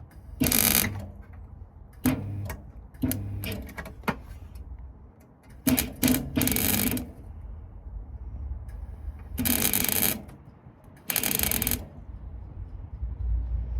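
Welder laying short tack welds on a car's sill panel: about eight separate bursts of crackling arc, each under a second, with pauses between.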